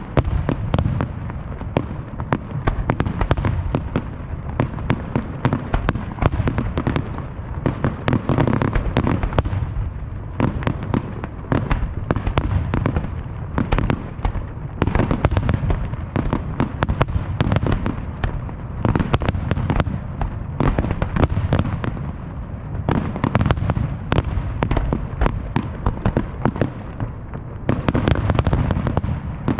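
Fireworks display: a dense, continuous barrage of aerial shells bursting, many sharp bangs overlapping each other with echoing rumble between them, as in a finale.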